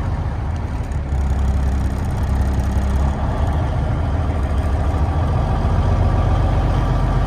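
Diesel engine of a Peterbilt 372 motorhome idling steadily soon after a cold start from a year of sitting, its low note briefly heavier about a second in.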